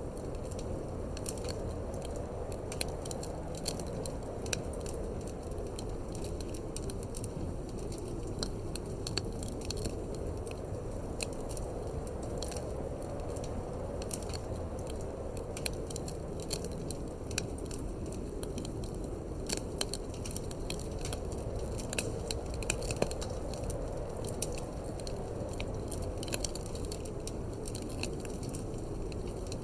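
Wood fire crackling in a fireplace, with many irregular sharp pops and snaps over a steady low rush of wind.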